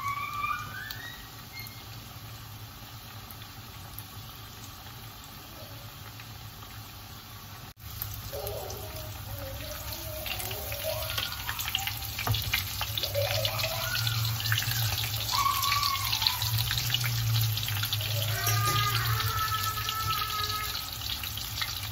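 Breaded chicken schnitzels shallow-frying in hot oil in a pan: a steady crackling sizzle, fainter at first, then louder from about eight seconds in.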